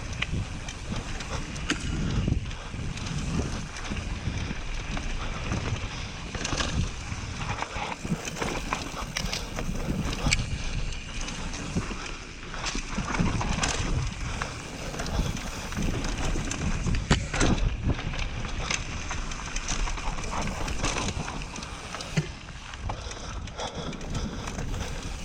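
Mountain bike descending a rough downhill trail: wind rushing over the helmet-camera microphone, with frequent sharp clattering knocks and rattles from the bike over the ground.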